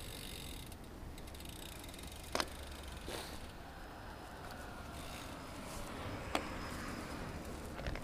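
Bicycle being ridden along a street: a steady low rumble of tyres and wind, broken by a few sharp clicks and rattles from the bike.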